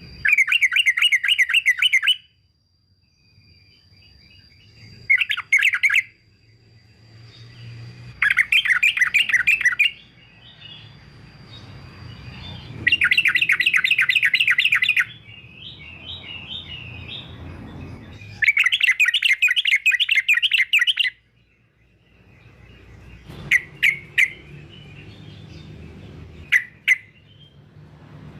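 Male yellow-vented bulbul singing: five loud, rapid, bubbly warbled phrases of about two seconds each, followed by a few short separate chirps in the last several seconds, over a faint low hum.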